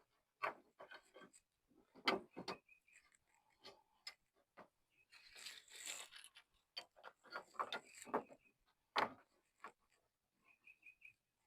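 Faint, irregular clicks, taps and knocks of hand tools and hood hardware being handled, with a brief rustle in the middle and a quick run of four short high chirps near the end.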